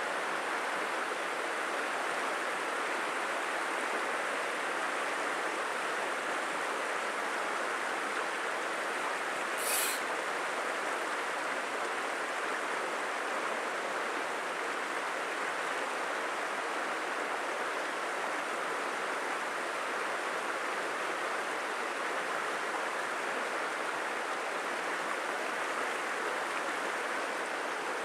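Steady rush of a flowing stream. A brief high-pitched sound stands out about ten seconds in.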